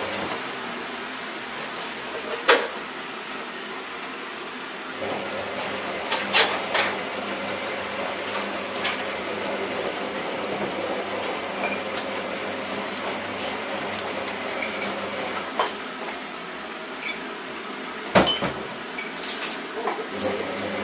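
Crockery and cutlery clinking: scattered sharp clinks and knocks of mugs, plates and spoons being handled. A steady rushing noise runs underneath, with a low hum joining about five seconds in.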